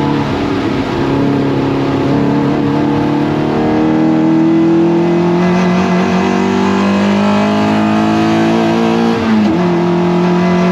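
Toyota MR2 race car engine under hard acceleration, its note climbing slowly through a long gear. About nine seconds in there is a brief dip in pitch at an upshift, and then it pulls on steadily.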